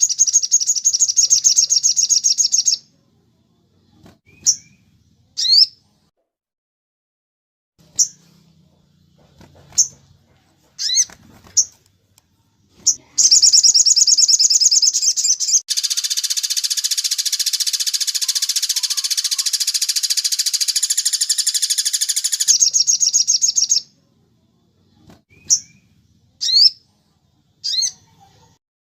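Recorded bird calls: bursts of rapid, high trills alternating with short, sharp chirps and slurred whistles, with a long dense buzzing trill in the middle.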